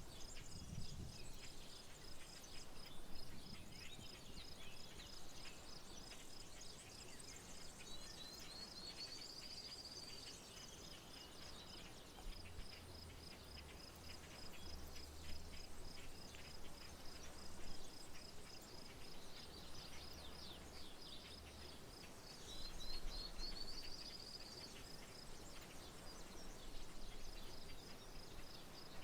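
Outdoor ambience by a rural levee: a steady, fast-pulsing high insect trill runs throughout. A songbird's rising, buzzy phrase sounds twice, about 8 and 23 seconds in, and a faint low hum comes in for about ten seconds in the middle.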